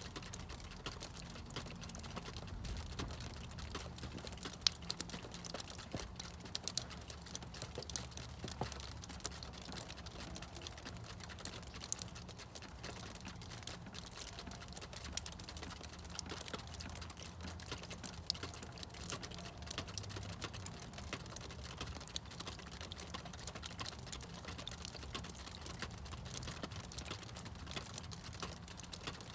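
Meltwater from thawing snow dripping: many small, irregular drips and ticks at once, with a faint low rumble beneath.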